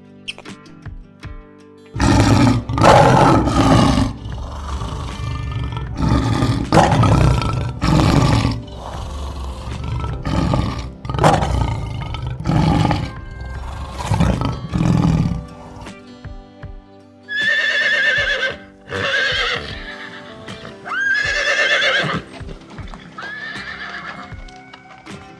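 A large animal giving a series of deep, rough roaring calls, about eight in a row, then a horse whinnying several times in high, quavering neighs, over soft background music.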